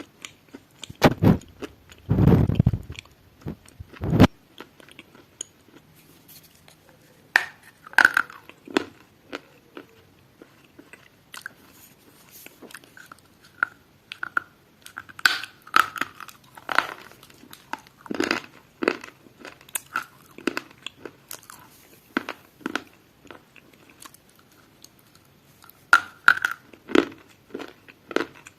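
Someone biting and chewing crunchy food: irregular sharp crunches with short pauses between, heaviest in the first few seconds.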